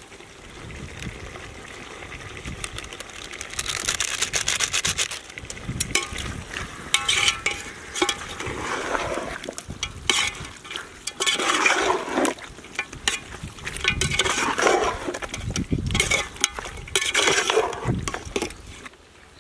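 Chicken pieces stirred in a hot pan with a spoon: irregular scraping and clattering strokes of the spoon against the pan over a light sizzle.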